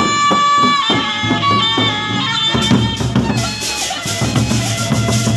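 Gendang beleq ensemble playing: a reedy wind melody with long held notes, then about halfway through the big drums and clashing cymbals come in with a busy beat.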